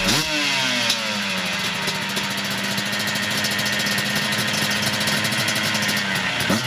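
Motocross dirt bike engines revving on track. The pitch climbs sharply at the start and again near the end, and sinks off in between as the throttle is rolled off.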